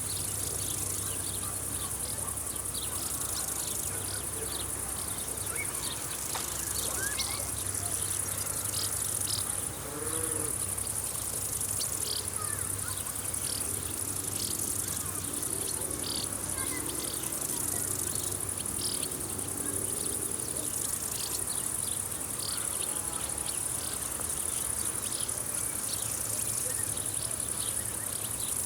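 A chorus of insects stridulating in a summer field: a steady high-pitched trill, with many short chirps over it.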